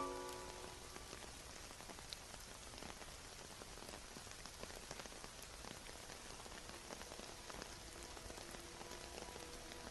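Steady rain falling on a surface, with scattered individual drops ticking. A soft chord of the music fades out in the first second, and a few faint held notes come back near the end.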